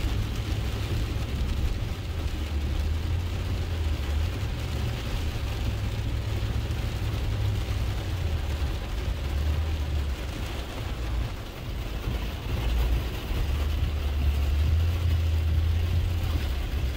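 Pickup truck driving through deep floodwater, heard from inside the cab: a steady low engine and road rumble under an even hiss of water. The rumble dips briefly about two-thirds of the way through.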